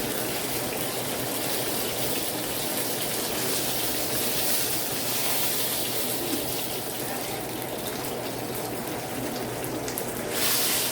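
Flour-crusted chicken shallow-frying in oil in a skillet: a steady sizzle with fine crackles, getting louder near the end.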